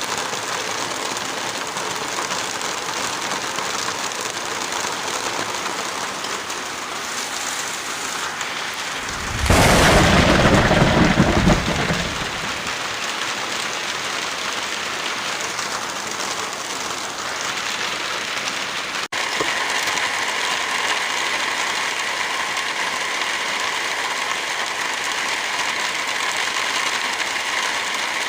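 Steady rain with a loud clap of thunder about ten seconds in, rumbling for two to three seconds. About two-thirds of the way through, the rain cuts abruptly to a slightly louder, steadier hiss.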